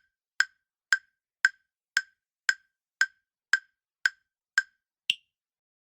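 Quiz countdown-timer sound effect: nine sharp, even ticks about two a second, then a final tick higher in pitch that marks time up.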